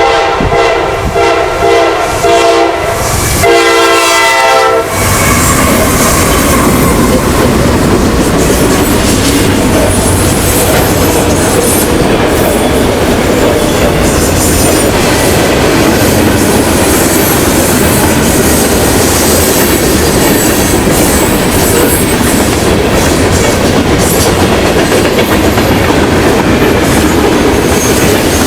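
Diesel freight locomotive horn sounding two blasts, a long one then a shorter one, then the multi-unit locomotive consist and train passing close by with a loud steady rumble and wheel clatter over the rails.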